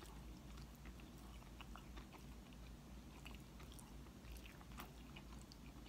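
Faint chewing and small wet mouth clicks, scattered irregularly, over a low steady hum.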